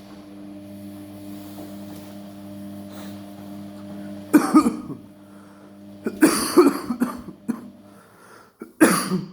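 A person coughing in three fits, about four, six and nine seconds in, the loudest sounds here. Beneath them is the steady hum of an Amica washing machine running its main wash, which stops about eight seconds in.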